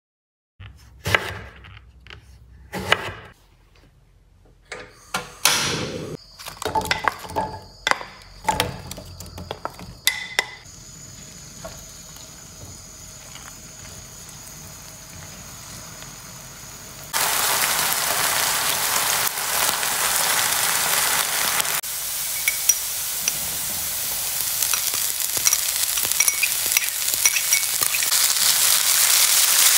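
Eggplant slices frying in oil in a nonstick frying pan, stirred with a wooden spatula. A scatter of knocks and clinks fills the first ten seconds, then a loud sizzle starts suddenly past the halfway point and swells toward the end.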